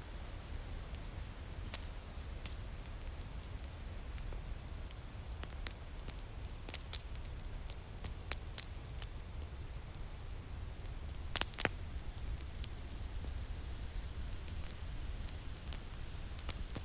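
Wood fire crackling, with sharp pops at irregular intervals, the loudest a few pops about seven seconds in and a double pop past the middle, over a steady low rumble of wind.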